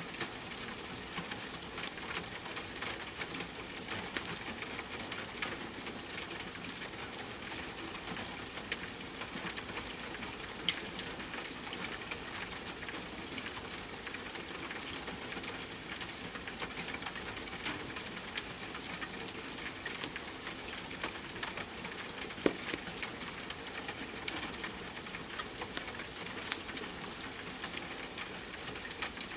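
Steady rain with a wood fire crackling over it. The fire gives many small ticks and two louder pops, one near the middle and one about three-quarters through.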